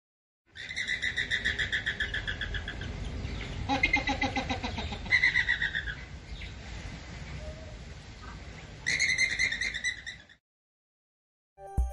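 A flock of flamingos calling: fast runs of repeated call notes, with lower calls mixed in about four seconds in and a louder run near the end before it cuts off.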